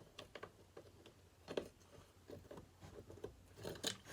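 Scattered light clicks and taps of small metal parts, such as screws, being handled on a workbench, with a louder tap near the end.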